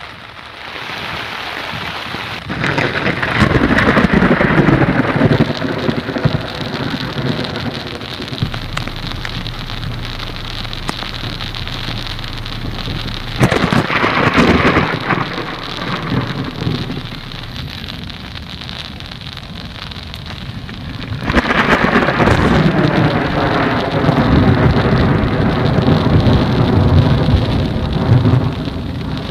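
Heavy rain pouring down on flooded ground and puddles. It grows louder in stretches about three seconds in, around fourteen seconds, and from about twenty-one seconds on.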